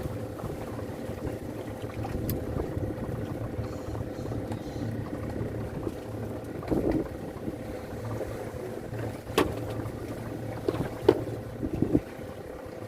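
Small fishing boat at sea in strong wind: steady wind noise over a constant low hum, with a few sharp knocks on the boat about two-thirds of the way through and near the end.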